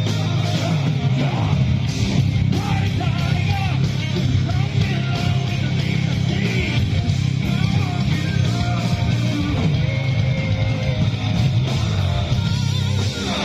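Rock band playing live: guitar, bass and drums with a sung, partly yelled vocal.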